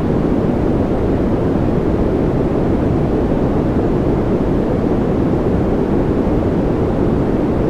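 Continuous sleep-aid noise track played as white noise: an even, unbroken rushing hiss that is deep and dull rather than bright, and never changes.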